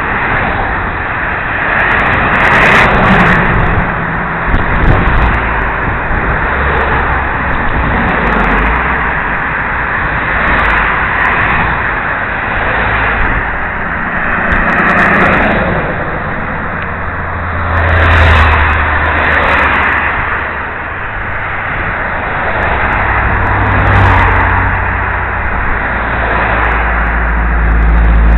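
Wind rushing over a helmet-mounted camera's microphone while cycling: a loud, steady rush with a deep rumble that swells and eases every few seconds.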